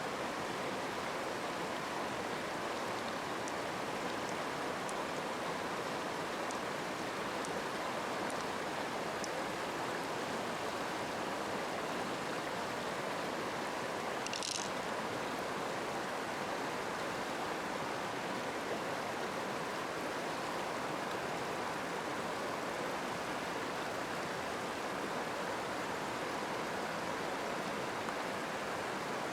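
Steady rushing of flowing stream water, with a brief high-pitched sound about halfway through.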